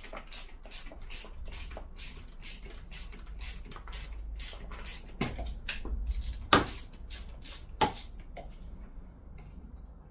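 Ratchet spanner clicking steadily, about three or four clicks a second, as a hand-guard bolt is worked loose, with a few louder metal knocks near the middle; the clicking stops about a second before the end.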